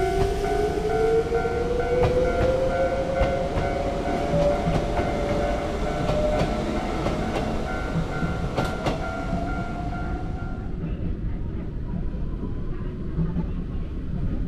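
Electric train passing through a level crossing, its motors whining upward in pitch as it gathers speed, with wheels clicking over the rail joints and a rumble underneath. The crossing's electronic warning bell rings throughout and stops about 11 seconds in.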